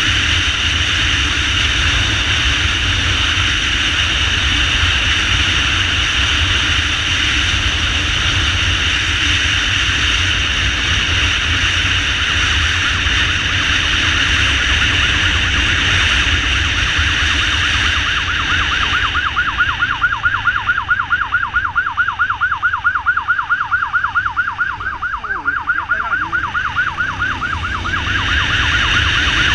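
Steady road and wind noise from a moving ambulance motorcycle. About two-thirds of the way in, a fast warbling emergency siren sounds for about nine seconds, then cuts off and the riding noise returns.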